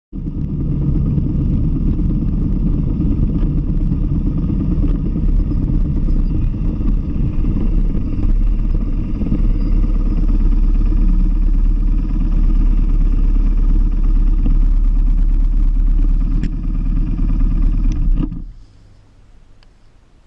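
BMW R1150GS boxer-twin motorcycle under way on the road: wind rushing over the microphone with the engine running steadily underneath. It cuts off suddenly about two seconds before the end, leaving a faint hush.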